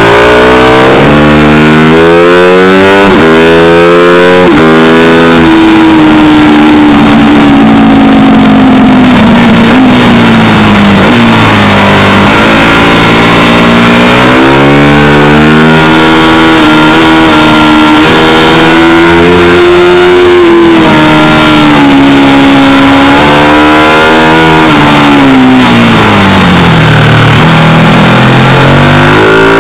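Onboard sound of a motorcycle engine ridden hard on track. It revs up through the gears in steps, drops in pitch under braking and downshifts into the corners, then accelerates again, with steady wind rush over the microphone.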